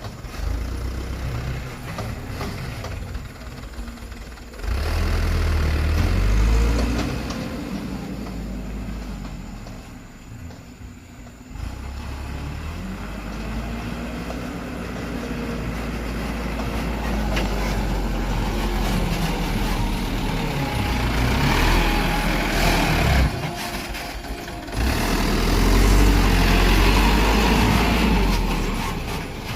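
Dump truck's diesel engine running under load, its pitch rising and falling, with sudden jumps in loudness.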